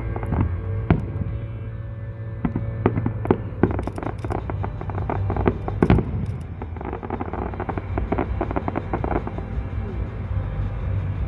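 Fireworks going off in quick succession: many sharp bangs and crackles, the loudest about three and a half and six seconds in. Music plays steadily underneath.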